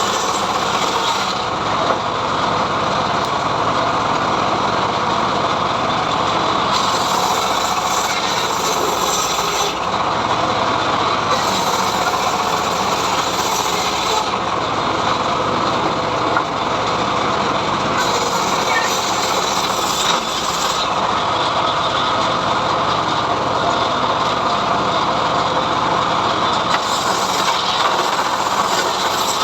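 Homemade engine-driven log saw running steadily while ripping mahogany, the engine's drone under the rasp of the blade in the wood. The high hiss of the cut comes and goes every few seconds.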